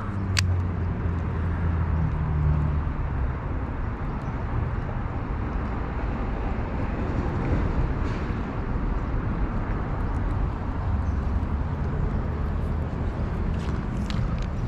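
Steady outdoor rumble and hiss, strongest in the low end, with a few faint ticks near the start and the end.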